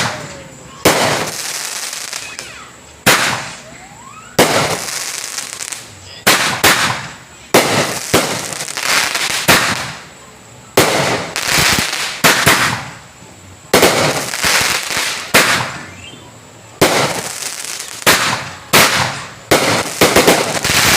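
A 12-shot, 200-gram consumer fireworks cake with 1.25-inch tubes firing its shots one after another. Each is a sharp bang followed by about a second of fading crackle and hiss. The shots come every one to two seconds and crowd closer together near the end.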